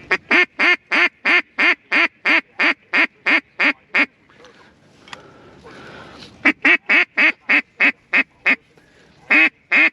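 Mallard duck call blown hard in runs of loud quacks, about three a second. There is a run of about twelve, a pause of about two seconds, a run of about seven, and then another run starts near the end.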